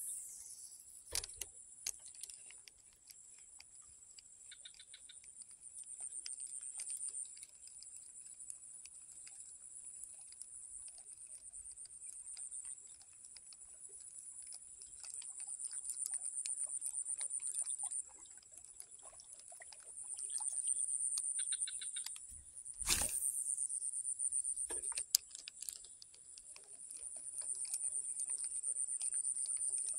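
Insect chorus: a high, steady buzzing that swells and fades in waves, with scattered small clicks. Two sharp thumps, about a second in and again about 23 seconds in.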